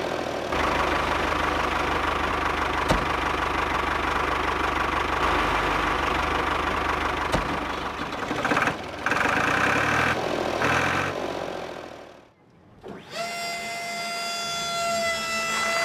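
Miniature DIY tractor running steadily with an engine-like hum as it drives, fading out about twelve seconds in. A steady, held high tone with overtones then starts and continues.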